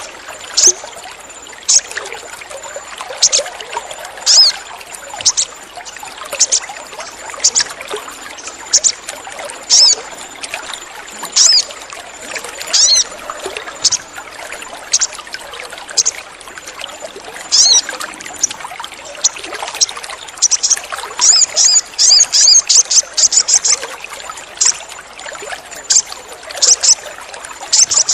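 Sogon sunbird calling: short, sharp, high-pitched chirps about once a second, with a quick run of chirps about two-thirds of the way through. Under it runs a steady trickle of water.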